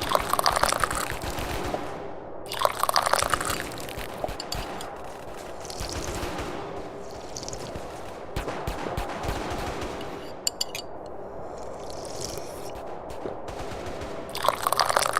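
Tea being slurped in loud, wet sips. There is one sip at the start, another about three seconds in and a third near the end, with quieter crackly slurping between them.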